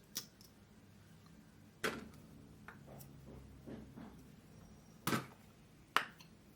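A few sharp knocks and clicks from objects being handled in a small room, the loudest about two, five and six seconds in.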